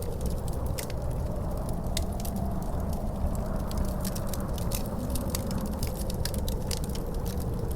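Wood fire crackling in a fireplace, with frequent sharp pops, over a steady low rumble of wind and a faint howl that rises and falls.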